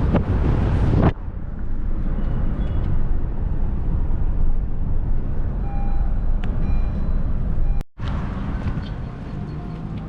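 A car driving, heard as a steady low road and engine rumble. Loud wind noise on the microphone fills the first second and then cuts off abruptly. The sound drops out completely for a moment near the end.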